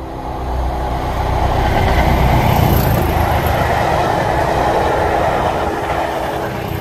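Class 201 'Hastings' diesel-electric multiple unit passing close by: a steady rush of diesel engine, wheel and rail noise with a deep rumble, building to its loudest about two seconds in and staying loud as the coaches go by.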